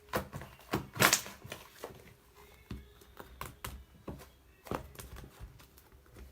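A string of sharp clicks and knocks from objects being handled on a hard surface, the loudest cluster about a second in.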